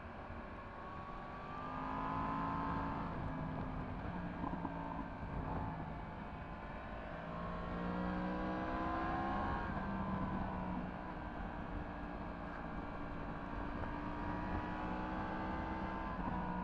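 Yamaha MT-10 SP's crossplane inline-four with an Akrapovic exhaust, ridden on the road: the engine note rises under throttle and drops back several times. Steady wind and road rumble sit underneath.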